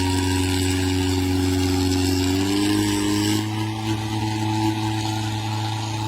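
Mahindra tractor diesel engines running steadily; about two and a half seconds in, the engine note rises slightly and then settles a little quieter.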